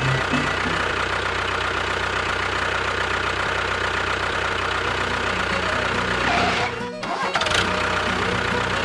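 A steady engine-like running sound mixed with background music, cut off briefly about seven seconds in and then resuming.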